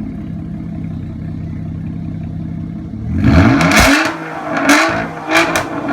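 2012 Nissan Maxima's 3.5-litre V6, straight-piped with resonator and muffler deleted, idling steadily, then revved in a few quick throttle blips about three seconds in, the pitch rising and falling each time.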